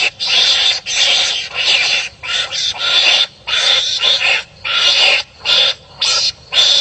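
Wild animals fighting and calling at each other, a rapid series of harsh, rasping calls, one and a half to two a second.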